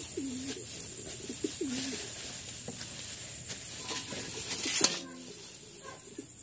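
A bird's low cooing calls, a dipping coo repeated a few times in the first two seconds, over light tapping of a knife on a wooden cutting board. A louder plastic-bag rustle comes about five seconds in.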